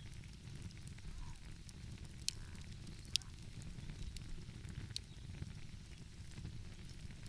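Wood fire crackling, with a few sharp pops, the loudest about a third of the way in, over a steady low rumble.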